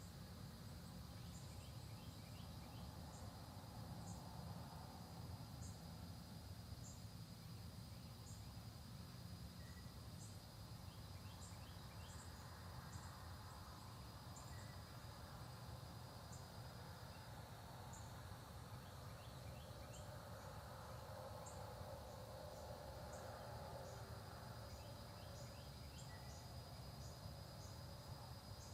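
Faint early-morning countryside ambience. A steady high insect drone, typical of crickets, stops a little past halfway through and comes back near the end. Scattered short high chirps and a few quick runs of notes sound over a low rumble.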